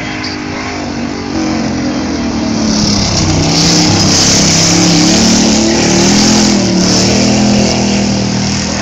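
Rat rod's engine revving hard as it races round a dirt oval and passes close by, its pitch wavering up and down through the bend; loudest from about four to six seconds in, then easing as it moves away.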